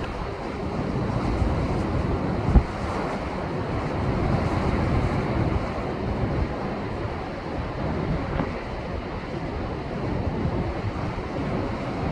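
Rough, post-typhoon surf breaking and surging against shoreline rocks in a continuous, swelling rush, with wind buffeting the microphone. A single sharp low thump about two and a half seconds in.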